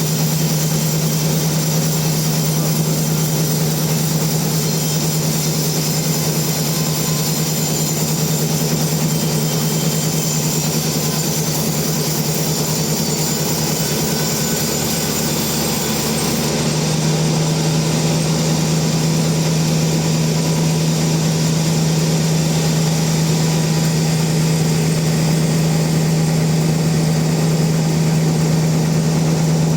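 Sawmill machinery running with a steady engine-like hum and hiss. About halfway through the sound shifts, losing some of its highest hiss.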